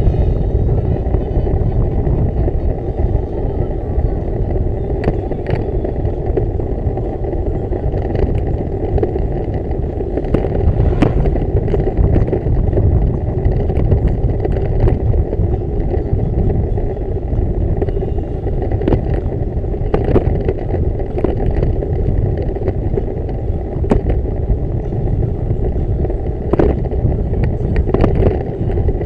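Steady low rumble of wind and road noise from riding a bicycle, with scattered small clicks and rattles.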